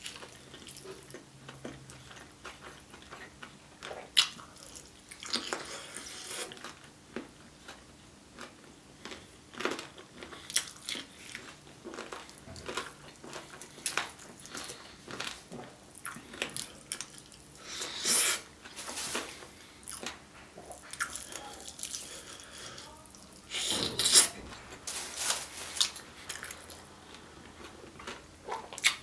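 A person biting and chewing sauce-glazed Korean fried chicken (a honey butter drumstick), in irregular bites and chews with a few louder bites, the loudest about two-thirds of the way through.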